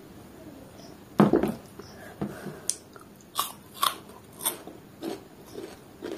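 Close-miked eating: a thump about a second in, then wet chewing and lip-smacking clicks, about one every half second, as a mouthful of rice and chicken liver curry is chewed.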